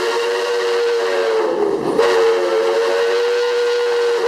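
Steam locomotive whistle blowing, several tones sounding together as one chord: a long blast that stops just before two seconds in, then a second long blast held steady. The train runs underneath with a steady noise.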